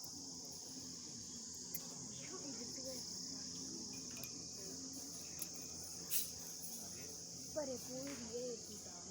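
A steady, high-pitched chorus of insects chirring without a break. Faint distant voices come in briefly near the end.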